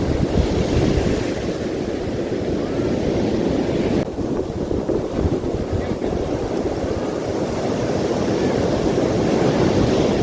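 Strong wind buffeting the microphone in uneven gusts, a dense low rumble over the rush of sea surf.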